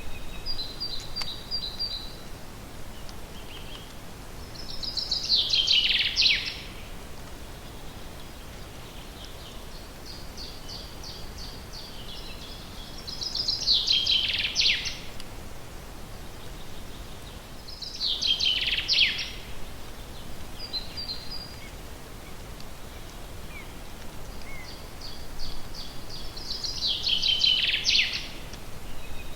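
Wild songbirds in a forest: one bird sings four loud, short phrases that fall in pitch, a few seconds apart, while another gives thin, high chirping series in between, over a faint steady hiss.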